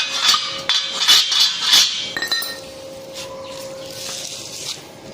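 A rapid run of sharp metallic clinks and taps, metal striking steel, lasting about two seconds and then dying away, leaving a faint steady hum.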